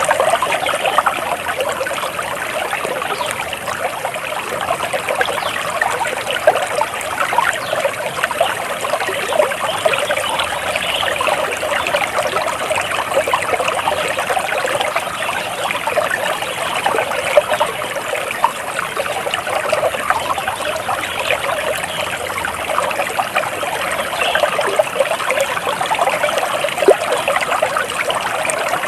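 Water flowing and trickling steadily, a continuous babble of small splashes like a stream.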